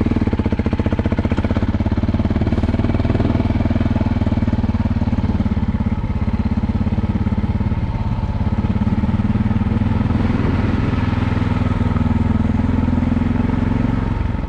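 Single-cylinder four-stroke engine of a KTM LC4 640 enduro motorcycle running steadily at idle.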